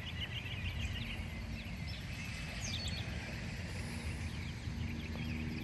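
Songbirds chirping and singing, with many short high calls and quick glides, over a steady low rumble.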